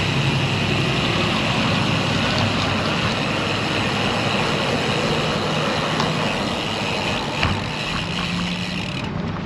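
Steady road noise of passing motor traffic, including trucks, with a low engine hum beneath it.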